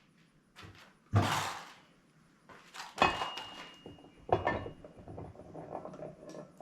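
Metal parts clanking and scraping as a hydraulic cylinder rod is handled and set in a vise. There is a scrape about a second in. About three seconds in comes a sharp clank that rings briefly, followed by another knock.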